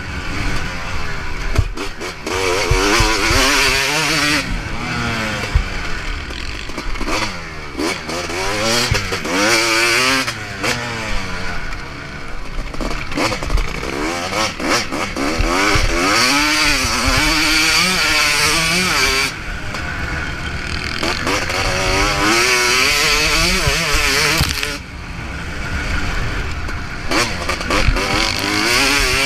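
Motocross bike engine under hard riding, revving up and falling back again and again as the rider opens and closes the throttle around the track, with rushing noise over it.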